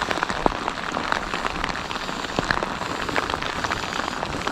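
Steady rain falling, with many sharp individual drop hits close to the microphone.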